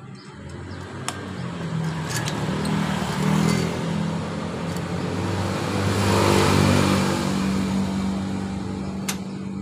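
A vehicle engine running steadily, growing louder toward the middle and easing off near the end, with a few sharp clicks over it.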